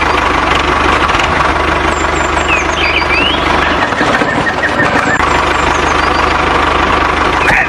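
Mini tractor's engine running steadily with a rough knocking idle, its low rumble dropping away briefly about halfway through.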